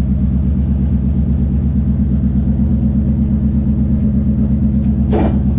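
A car engine running steadily at low revs, with an even throb. A brief hiss cuts in near the end.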